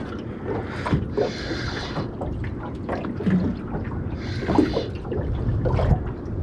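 Water sloshing and splashing in short hissy bursts about every three seconds, over a steady low rumble with a few small knocks.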